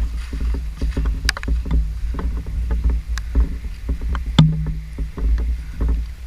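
Footsteps wading through deep street floodwater, with irregular sloshing and splashing over a steady low rumble. A sharp knock with a short low hum stands out about four seconds in.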